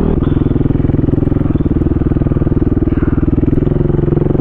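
Single-cylinder four-stroke enduro dirt-bike engine running under way. Its pitch drops just after the start as the throttle eases, then it holds a steady, even pulse at moderate revs.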